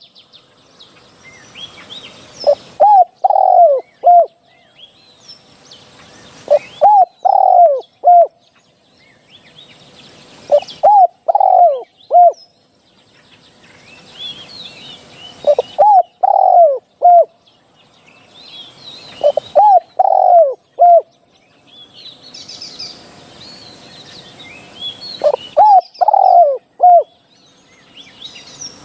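Spotted dove cooing: six phrases of several hooting notes, one about every four seconds, the kind of call played to lure wild spotted doves. Faint chirps of small birds come between the phrases.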